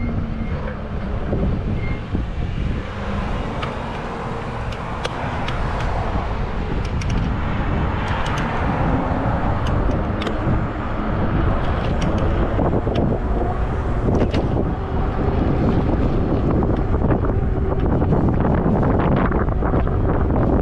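Wind buffeting the microphone on a moving e-bike, over rumbling road and tyre noise, with motor traffic nearby.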